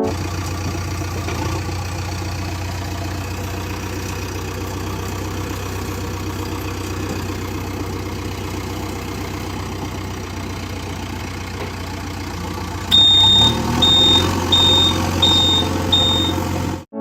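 Truck engine idling steadily with a low hum. About 13 seconds in it gets louder and a high-pitched reversing beeper sounds five times, evenly spaced.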